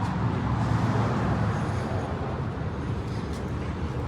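Steady low rumble of road vehicle noise: engine and tyres on the road.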